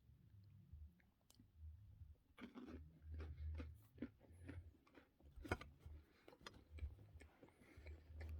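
Near silence: faint room hum with scattered small clicks and soft rustles.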